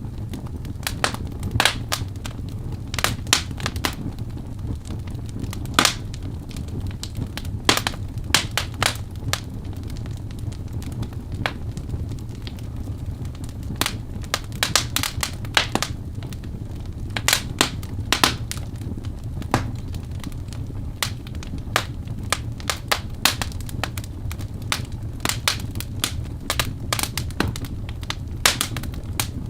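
Birch logs burning in a fireplace: a steady low rumble of the fire with sharp, irregular crackles and pops, several a second.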